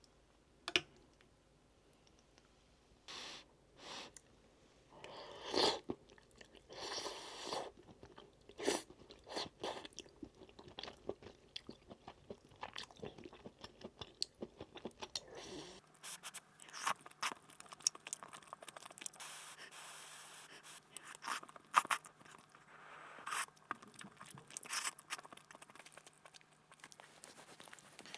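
A person biting and chewing crunchy food, with irregular crisp crunches throughout.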